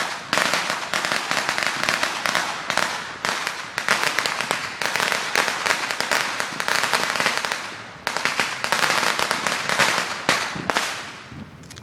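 Fireworks going off in a dense, rapid barrage of crackling pops and bangs. There is a brief lull about eight seconds in, then another dense volley that dies away just before the end.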